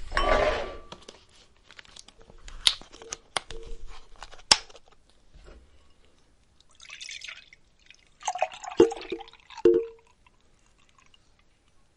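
Apple juice being poured from a bottle into a cup, with liquid sounds in the first second and again between about seven and ten seconds in. Between them come a few sharp clicks and taps from the bottle and cup being handled.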